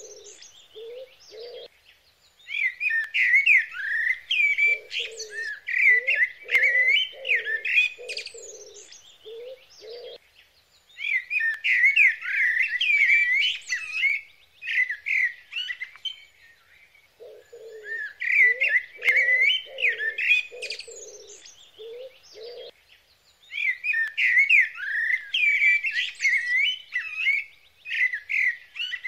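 Birds chirping and singing in bouts of a few seconds with short pauses between, some bouts joined by a lower series of short, evenly paced notes.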